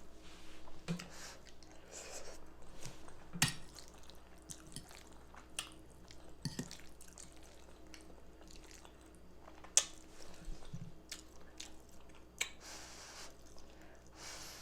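Close-miked eating of baked chicken with rice and gravy: chewing and wet mouth sounds, broken by scattered sharp clicks, the loudest three about three and a half, ten and twelve and a half seconds in.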